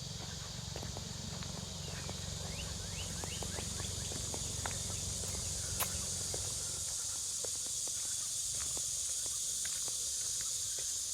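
Footsteps along a walking path over a steady, high insect drone, with a short run of bird chirps about three seconds in.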